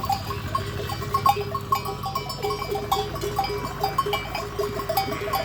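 Flock of sheep with neck bells, the bells clinking irregularly at a few fixed pitches as the sheep move about feeding.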